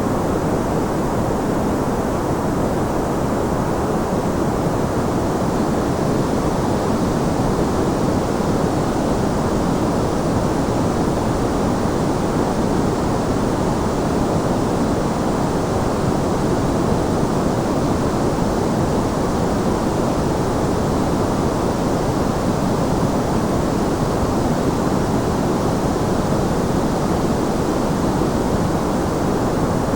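Steady white noise, an even unchanging hiss weighted toward the low and middle range, with a deeper rush underneath.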